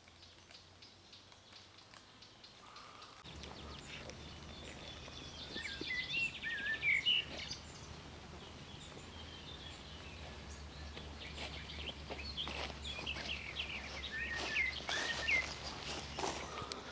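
Small birds chirping and calling in short bursts, around the middle and again toward the end, over a low steady hum that comes in a few seconds in.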